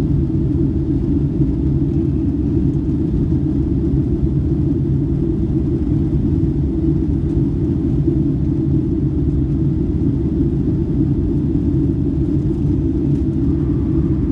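Boeing 757-200 in flight heard from inside the cabin: a steady, loud low rumble of engine and airflow noise.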